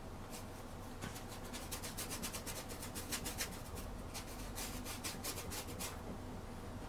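Paintbrush scrubbing oil paint onto canvas in quick, short back-and-forth scratchy strokes, several a second, starting about a second in and easing off near the end.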